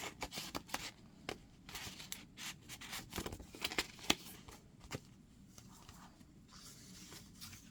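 Paper pages and inserts of a handmade junk journal being handled and turned: irregular rustles, crinkles and light taps, growing quieter about five seconds in.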